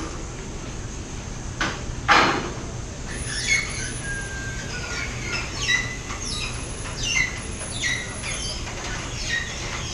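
A bird calling repeatedly in short descending chirps, one after another, over a steady low hum, with a brief burst of hiss about two seconds in.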